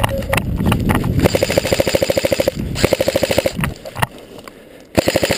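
Airsoft electric gun (AEG) firing full-auto bursts, a rapid rattle of shots: a longer burst about a second in, a shorter one just after, and another starting near the end.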